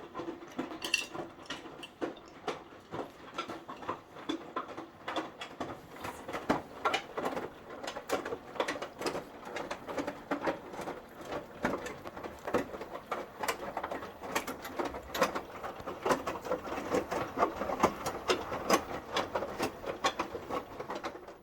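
Indesit 9 kg washing machine running its wash cycle with the top and back covers off. It gives a busy, irregular patter of small clicks and knocks as the drum turns the wet laundry. The sound cuts off suddenly near the end.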